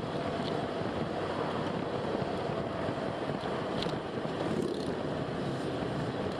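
Car driving along a road: steady road and engine noise, with a few faint short ticks.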